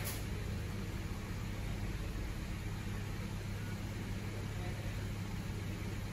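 2017 Honda HR-V's engine idling, a steady low hum heard from inside the cabin.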